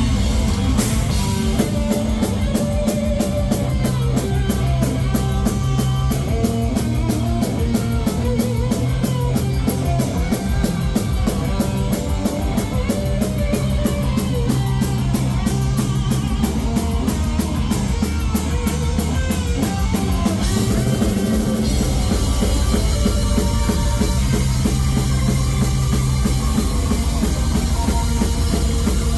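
A heavy metal band playing live in an instrumental passage: distorted electric guitars, bass and a drum kit. Rapid, even drum hits run through most of it, and the drumming changes about two-thirds of the way through. Recorded on a phone.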